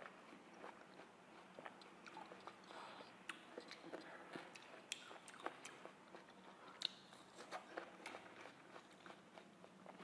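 Faint close-up chewing of juicy watermelon flesh: soft, wet mouth clicks and smacks coming at irregular intervals.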